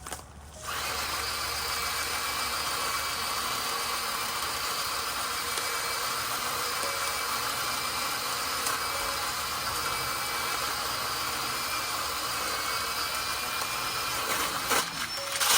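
A small motor running steadily with an even whirring hiss. It starts abruptly about a second in and stops near the end.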